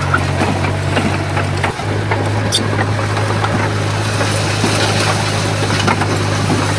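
Komatsu bulldozer's diesel engine running with a steady low drone, with scattered clicks and rattles over it; the drone dips briefly a couple of seconds in.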